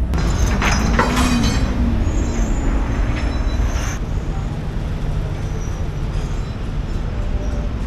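Steady low rumble of the ferry under way, heard on its open deck, with brief scraping and rustling noises and a short low whine in the first few seconds.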